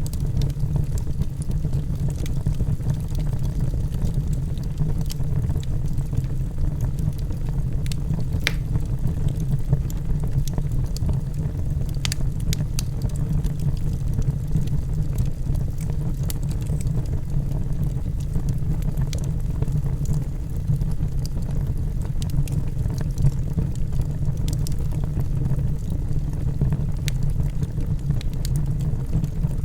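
Wood fire of burning logs in a fireplace: a steady low rumble of the flames with scattered sharp crackles and pops.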